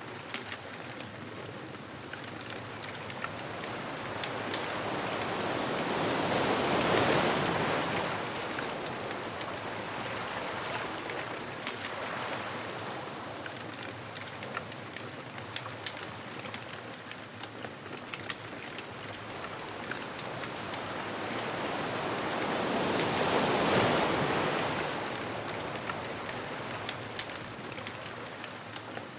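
Ocean waves rolling onto a beach: a steady wash that swells into two big breaking waves, about seven seconds in and again near the end, then ebbs. Small sharp crackles run underneath throughout, from a beach bonfire.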